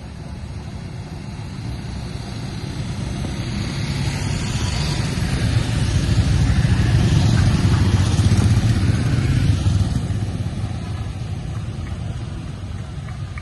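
Motorcycle engines running, growing louder to a peak about seven to nine seconds in and then fading away, like riders going past.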